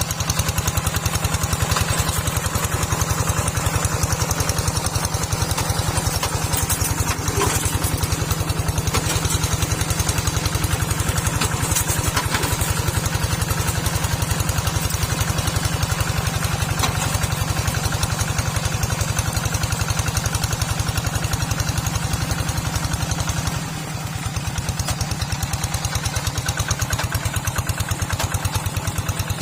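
Small tractor's engine running steadily with a fast, even firing beat; the sound drops briefly about 24 seconds in, then carries on.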